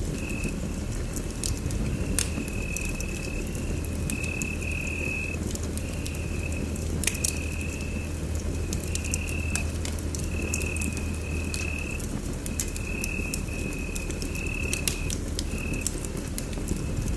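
Wood fire burning in a fireplace: a steady low rumble of flames with scattered sharp crackles and pops. A high thin whine comes and goes in short stretches throughout.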